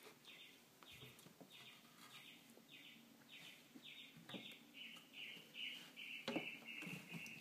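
A bird chirping over and over, faint, at about two notes a second, the notes getting shorter and quicker after about four and a half seconds. A few soft knocks come from the cats scuffling against the cabinet and carpet.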